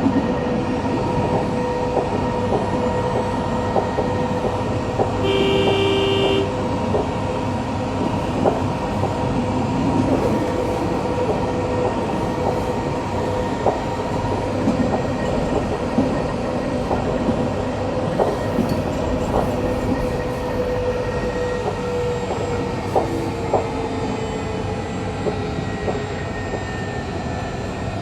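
A tram running along its line, heard from inside the car: a steady rumble with a motor whine and frequent clicks from the wheels over the track. About five seconds in there is a short horn-like tone.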